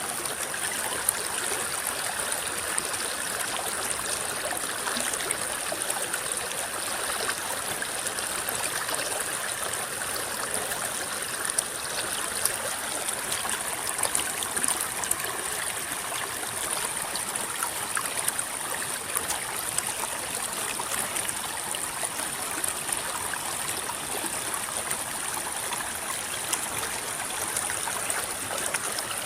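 River water rippling and flowing in a steady babble, with many small splashing ticks.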